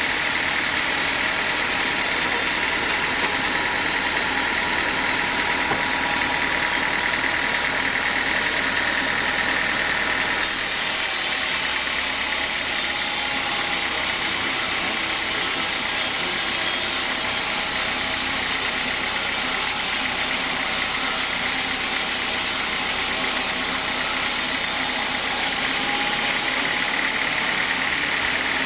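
Sawmill saw running steadily with a constant whine. From about a third of the way in until shortly before the end, a brighter hissing layer joins it.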